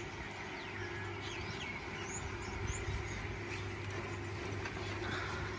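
Birds chirping in short, high calls scattered throughout, over a steady low hum.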